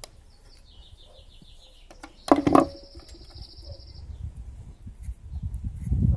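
A small bird sings quick high trills that step downward in pitch. About two seconds in there is a loud, brief, harsh sound, and low rustling handling noise builds toward the end.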